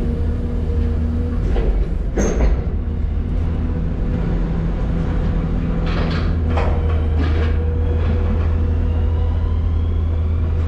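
Diesel engine of a heavy machine running steadily in a steel ship's hold, with a few sharp metallic clanks and scrapes about two seconds in and again around six to seven seconds in.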